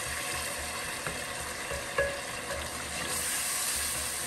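Onion-tomato masala for chole sizzling in oil in a glass pot as a wooden spoon stirs it, the masala being fried down (bhuna). A couple of light knocks about one and two seconds in.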